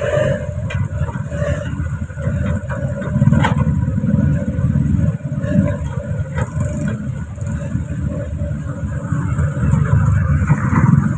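Truck engine running, a loud low drone that swells and eases, with a few brief knocks.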